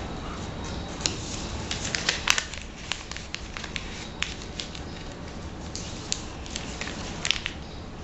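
A sheet of paper being folded and creased by hand: irregular crinkles and crisp snaps, busiest around two seconds in and again near the end.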